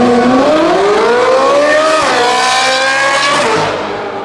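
Supercar engine accelerating hard from a standstill, revs climbing steeply, dropping sharply for an upshift about two seconds in, then climbing again before fading as the car pulls away.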